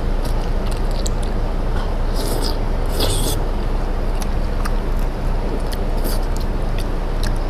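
Noodles being slurped and chewed, with two short slurps about two and three seconds in and scattered small clicks, over a steady low background hum.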